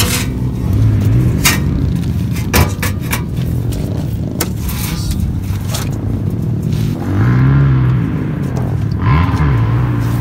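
Dirt bike engine running, its pitch rising and falling as it is revved, with several sharp knocks and clatters over it.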